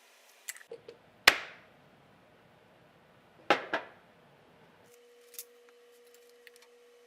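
A loud sharp knock with a short ringing tail about a second in, then two quick knocks a couple of seconds later, among a few light clicks. A faint steady hum starts about two-thirds of the way through.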